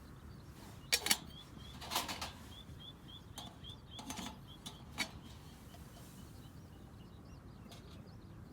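A small bird calling a quick series of short, high chirps, about three a second, over a couple of seconds. A few sharp clicks and knocks fall among them.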